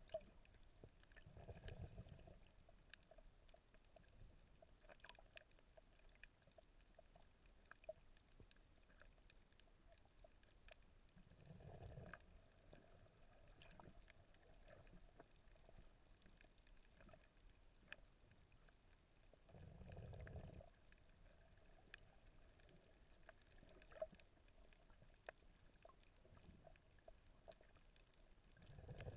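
Faint, muffled underwater water sound: a low whoosh four times, roughly every eight to nine seconds, with scattered faint clicks between.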